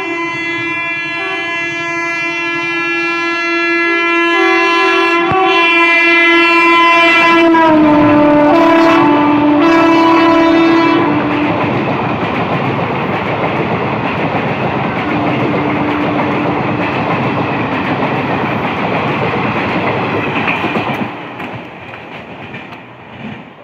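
Indian Railways express train passing at speed. The locomotive's horn sounds continuously for about eleven seconds and drops in pitch as the engine goes by, about eight seconds in. Then the coaches rush past with wheels clattering over the rail joints, with a short horn note in the middle, until the noise fades near the end.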